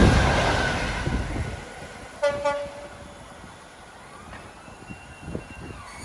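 Class 66 diesel locomotive running light, loud at the start and fading over the first second or so, then two short horn blasts about two seconds in.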